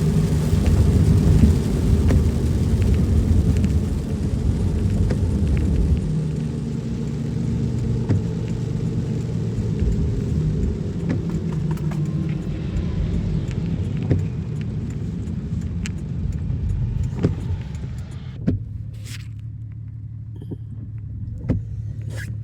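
Car driving, with steady engine and road noise. About three-quarters of the way through it grows quieter and loses its upper hiss.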